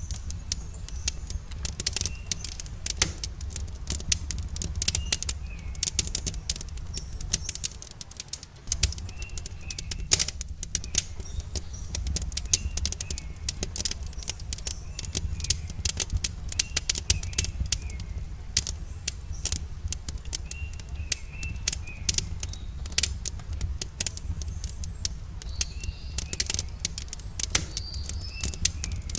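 Campfire crackling: frequent irregular sharp snaps and pops of burning wood over a low, steady rumble. Short bird chirps sound now and then behind it.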